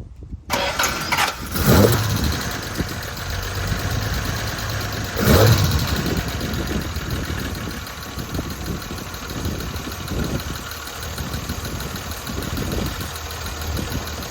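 1967 Jaguar XKE's 4.2-litre straight-six started from cold, with manifolds cold: it cranks and catches about half a second in, revs up briefly twice, about two and five seconds in, then settles to idle.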